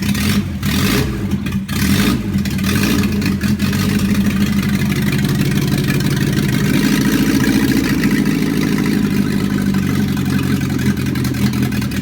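Volvo B21A 2.1-litre four-cylinder engine running just after its first start following a rebuild. The engine speed shifts up about halfway through and settles again a few seconds later.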